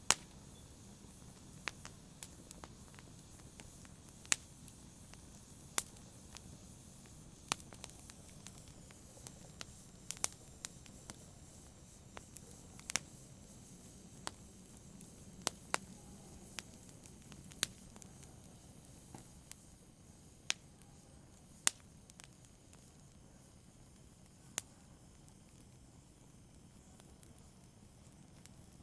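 Wood fire crackling: sharp, irregular pops every second or two over a low steady hiss of burning. The pops thin out near the end.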